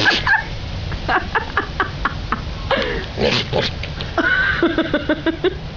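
Goats bleating: several calls, some broken into quick stutters, then one long quavering bleat starting about four seconds in.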